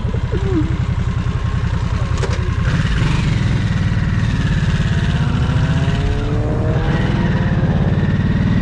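Motorcycle engine running on the move. It gets louder about three seconds in, then rises in pitch as the bike accelerates through the second half.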